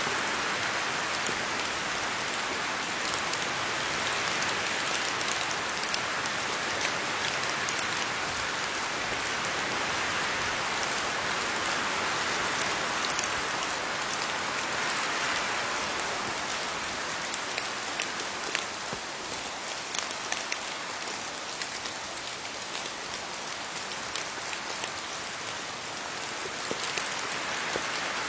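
Steady rain falling on leaves, a dense patter of drops with many sharper individual drips. It eases a little past the middle and picks up again near the end.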